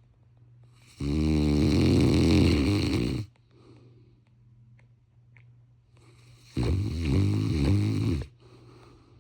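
Cane Corso snoring: two loud snores of about two seconds each, the first about a second in and the second past the middle.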